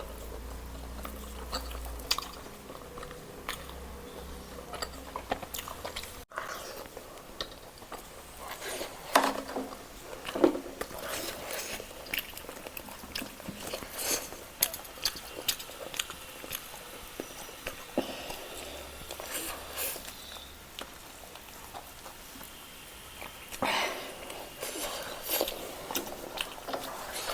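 A person chewing and biting food close to the microphone, with wet mouth smacks and clicks throughout. The loudest bites come about 9 and 10 seconds in.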